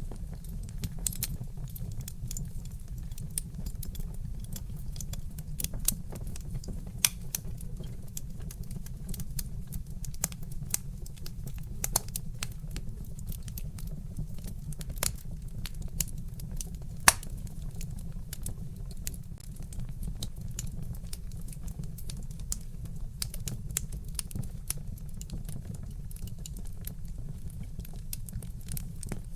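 Wood fire in a fireplace crackling: irregular sharp pops and snaps from burning logs over a steady low rumble, with one louder pop about halfway through.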